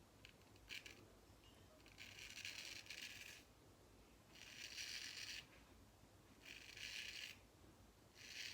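Frameback straight razor scraping stubble through shaving lather: four faint strokes of about a second each, after a couple of light ticks just under a second in.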